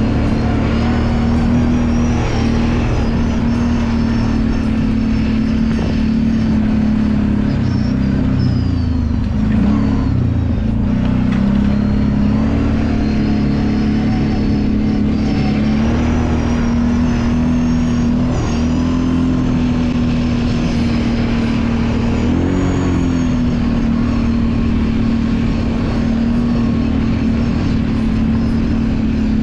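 Kawasaki Brute Force 750 ATV's V-twin engine running under way. Its note holds mostly steady, drops and climbs back around ten seconds in as the throttle eases off and opens again, and rises briefly a little after twenty seconds.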